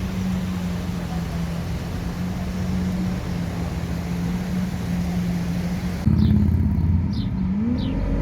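A car engine running at a steady pitch. About six seconds in the sound changes abruptly to another car, whose engine revs up near the end.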